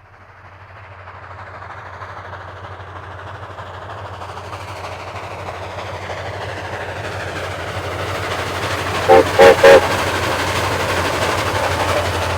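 Steam locomotive No. 4960, a 2-8-2, approaching at track speed, its running noise growing steadily louder. About nine seconds in its whistle gives three short blasts, the loudest sound, and the train carries on loud and close.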